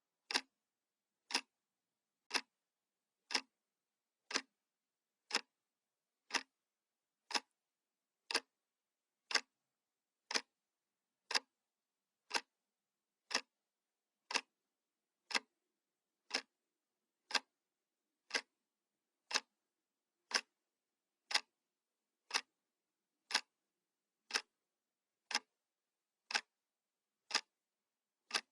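Analog clock ticking, one sharp tick each second with silence between the ticks.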